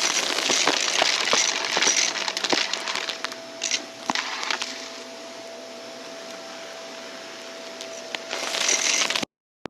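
Vacuum cleaner running with a steady motor whine while crunchy debris crackles and clicks as it is sucked up through the brushroll, heaviest at the start and again near the end. The sound cuts off suddenly just before the end.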